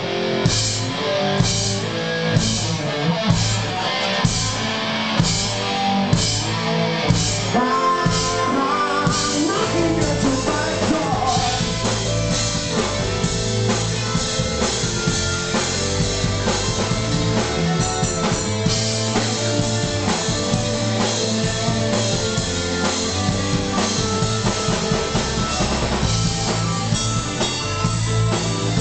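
A rock band playing live, with drum kit and electric guitar. The drums hit at a steady pulse at first, and the playing grows fuller and denser about nine or ten seconds in.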